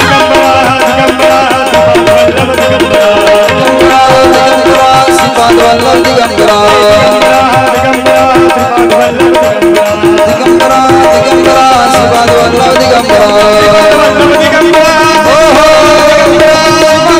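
Instrumental interlude of a devotional bhajan: a melody over a held drone with a steady hand-drum beat in the manner of tabla.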